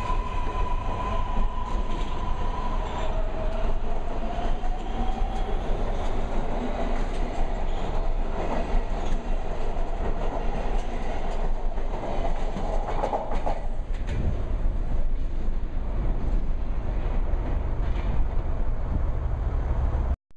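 MARTA rapid-transit train pulling out of the station and accelerating away: a steady rumble of the cars with a motor whine rising slowly in pitch as it gathers speed, and wheels clacking over the rail joints.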